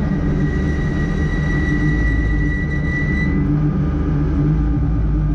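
Citroën C2 R2 rally car's four-cylinder engine running at a steady speed, heard from inside the cabin. A high steady tone sounds over it for about the first three seconds, then stops.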